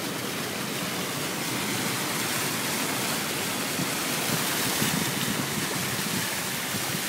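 Floodwater rushing steadily, an even, unbroken noise.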